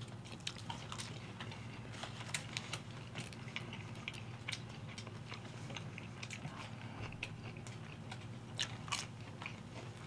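Two people eating McDonald's Chicken McNuggets: quiet chewing and biting, with many scattered small clicks and crackles from mouths and cardboard nugget boxes, over a faint low steady hum.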